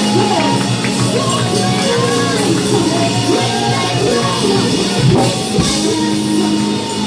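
Live church praise-and-worship music: a band with drum kit playing under singing voices, the sound carrying the echo of a large hall.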